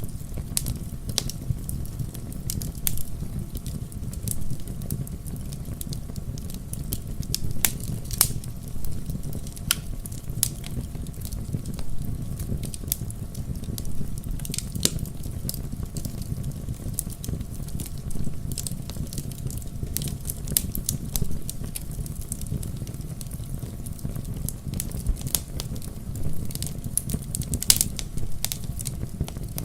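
Wood fire in a fireplace crackling, with frequent irregular sharp pops and snaps over a steady low rush of the burning logs.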